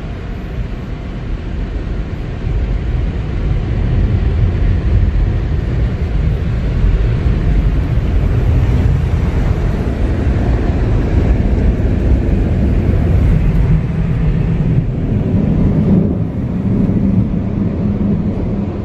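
Sonny's tunnel car wash air dryers blowing on the car, a loud rushing rumble heard from inside the car. It builds about four seconds in and eases near the end.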